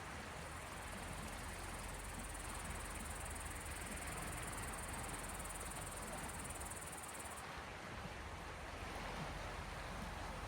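Small waves washing on the shore of the Gulf of Finland, a steady, even wash. A high, thin steady buzz sits above it and stops about seven seconds in.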